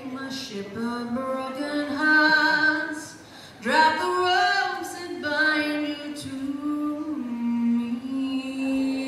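A woman singing slow, long-held notes live, with little or no instrumental accompaniment heard.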